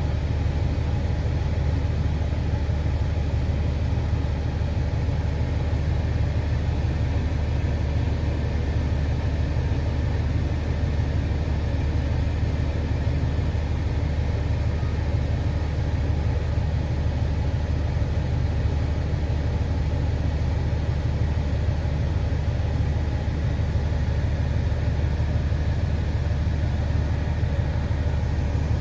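Engine running steadily: a constant low drone with no change in speed.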